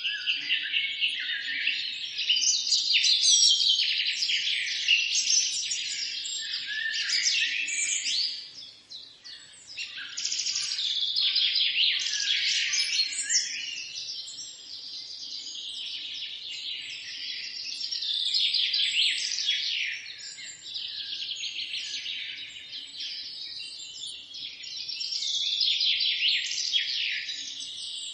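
Several songbirds singing and chirping at once in a forest, a dense chorus of rapid trills and chirps with a brief lull about eight seconds in.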